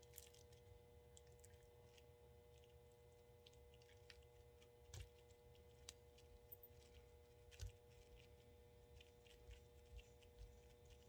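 Near silence: a steady faint hum with scattered faint clicks of small tools working on a model locomotive's small parts, a few of them a little sharper about five and seven and a half seconds in.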